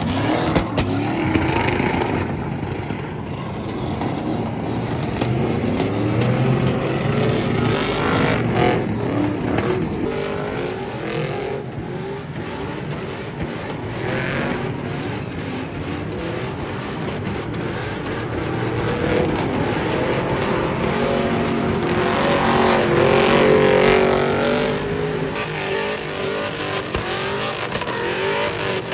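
Car engine revving hard, its pitch rising and falling again and again, loudest about three-quarters of the way through.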